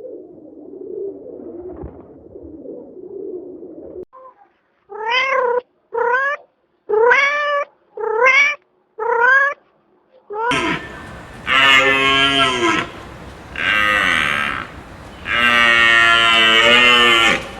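A cat meowing five times in short, pitched calls that rise and fall. From about ten seconds in, a larger farm animal gives loud, long, rough calls, one after another.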